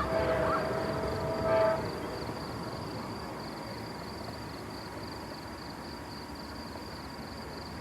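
Amtrak passenger locomotive's horn sounding a chord, loudest just before it cuts off under two seconds in. It leaves a steady, quieter rumble of the passing train.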